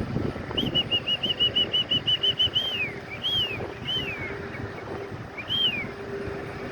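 A songbird singing: a quick run of about fourteen short whistled notes, then four separate longer whistles that each slide down in pitch.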